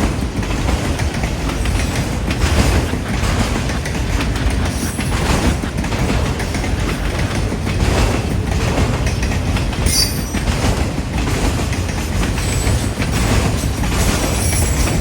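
Freight train cars rolling past, their wheels clicking over the track, with a brief high wheel squeal about ten seconds in. Strong wind rumbles on the microphone throughout.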